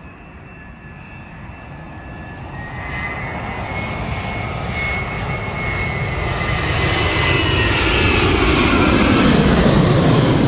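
Airplane engines growing steadily louder as the aircraft approaches, a high whine over a deep rumble, loudest near the end.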